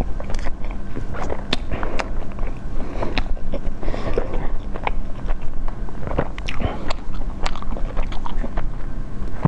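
Close-miked chewing of a mouthful of soft cream-filled cake, with irregular wet mouth clicks and lip smacks.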